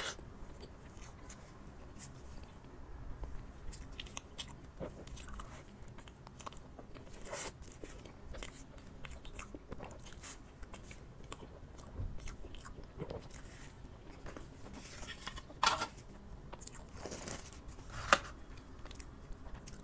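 Close-up eating sounds: a person biting into and chewing soft mochi-like cream desserts, with scattered wet mouth clicks and smacks. There are two louder sharp sounds, about 16 and 18 seconds in.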